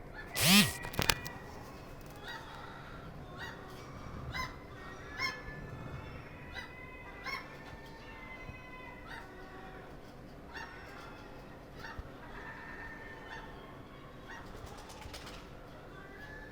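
Herring gulls calling: one loud call about half a second in, then a string of short, repeated calls.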